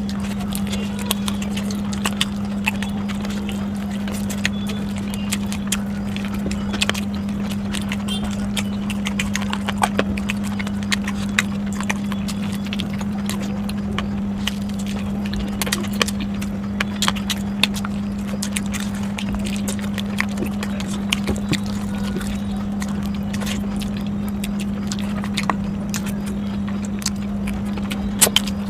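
Close-miked eating sounds: irregular sharp clicks and smacks of chewing and handling food, over a steady low hum.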